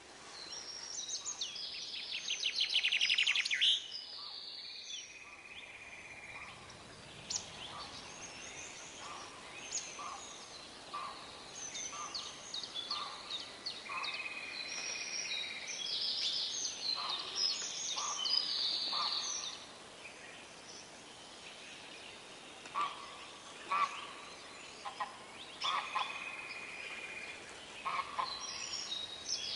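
Several birds chirping and calling over one another, with rapid trills, short whistled notes and chirps. The loudest is a fast rattling trill about three seconds in.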